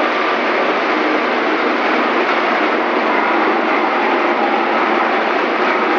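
Banana-stem chopping machine running, a loud steady mechanical noise that holds even throughout.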